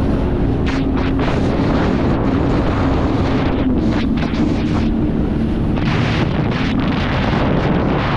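Jet ski running at speed: a steady engine hum under heavy wind noise on the microphone, with water slapping and splashing against the hull here and there.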